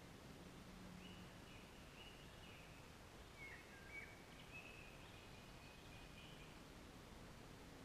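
Near silence with faint bird calls: a string of short, thin, high whistled notes from about a second in until past six seconds.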